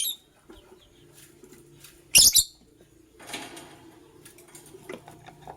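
Lovebirds giving short, shrill, high-pitched chirps, one right at the start and a loud one about two seconds in. A scratchier burst follows a second later, then faint chatter and small clicks.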